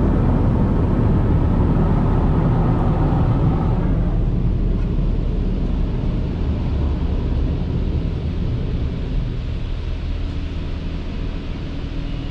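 Automatic car wash's high-pressure water jets blasting the underside of a truck, over a steady low rumble. The spray noise drops off about four seconds in, leaving the rumble.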